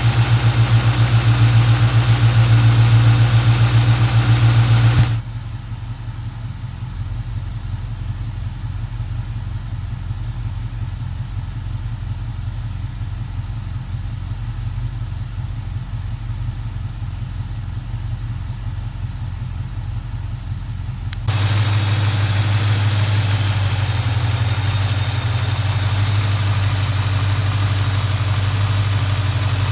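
A 1971 Mercedes-Benz 280SE 3.5's V8 engine idles steadily during a cold start. Its sound drops sharply about five seconds in and returns to full level about sixteen seconds later.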